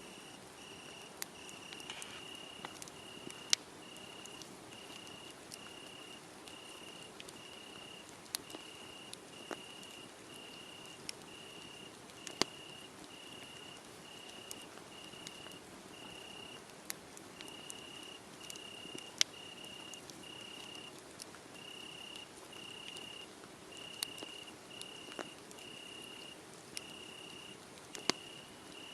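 A cricket chirping in even, high-pitched pulses, a little under two a second with a couple of short breaks, over a wood fire crackling with scattered sharp pops, a few of them much louder.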